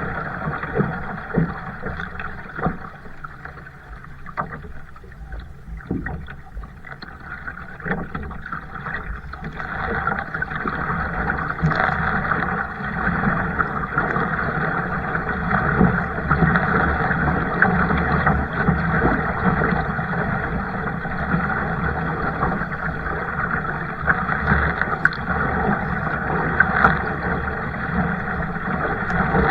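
Kayak on the water: water splashing and sloshing around the paddle and hull. There is a quieter stretch a few seconds in, then a steadier, louder wash from about ten seconds in.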